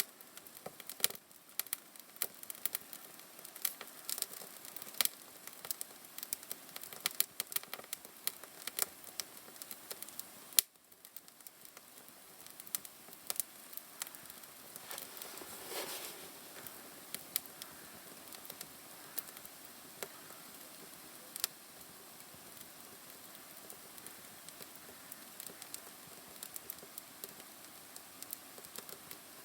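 Wood fire crackling in a fireplace: irregular sharp pops and snaps over a faint hiss, thick for the first ten seconds or so and sparser after that.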